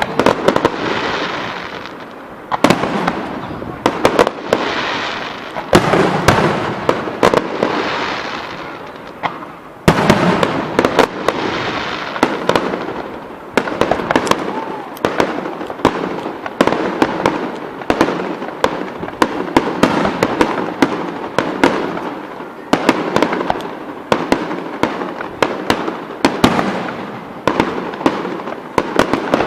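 Fireworks display: a dense run of shell bursts, sharp bangs coming several a second over a crackling haze. The single loudest bang comes about ten seconds in.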